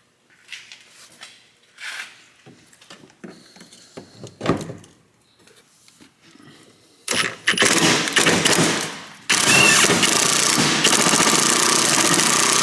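Scattered clicks and knocks of a socket and extension being handled. About seven seconds in, an impact gun starts rattling loudly and keeps going, easing briefly about two seconds later and then running steadily, as it backs out a rusted fuel tank strap bolt.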